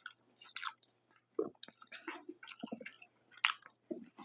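Close-miked chewing of a mouthful of Detroit-style pizza, an irregular run of wet mouth smacks and sharp clicks.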